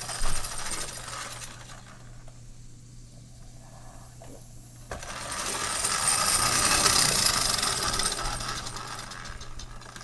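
Small live-steam engine of a Wilesco model steam tractor running with its clutch engaged, a rapid mechanical clatter with a hiss of steam. It fades low about two seconds in, then comes back louder about halfway through.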